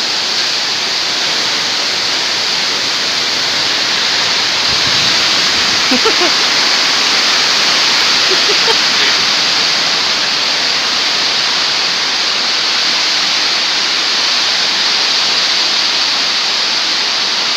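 Strong storm wind blowing steadily: a loud, even rushing noise.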